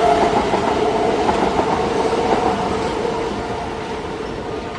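A train running on rails: steady rolling rail noise with a faint whine, slowly fading away.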